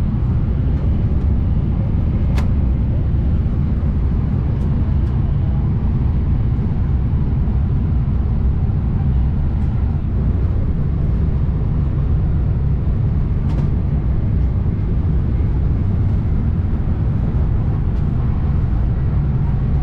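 Steady low rumble inside the passenger coach of a Renfe Class 112 high-speed train as it runs, with a couple of faint clicks.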